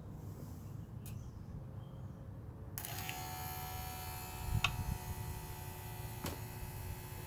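A steady electric buzz, like a small electric motor, switches on about three seconds in and keeps running, with two sharp clicks after it; the engine is not yet running.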